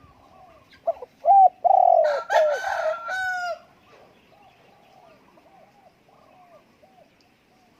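Spotted doves cooing, a run of soft arching coos that goes on throughout. About a second in comes a loud burst of calling, harsher and rich in overtones, that lasts about two and a half seconds.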